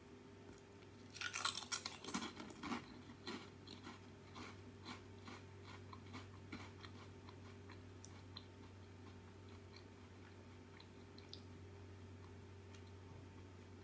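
Crisp, thin rice cracker being bitten and chewed: loud crackling crunches about a second in, then a run of quieter chewing crunches that thin out and stop by about eight seconds. A faint steady low hum lies underneath.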